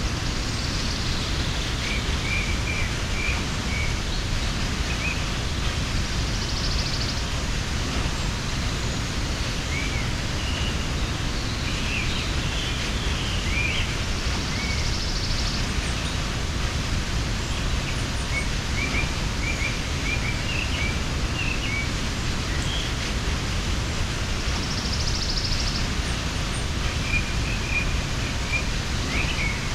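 Steady rush of a mountain waterfall, with small birds chirping in short scattered runs above it.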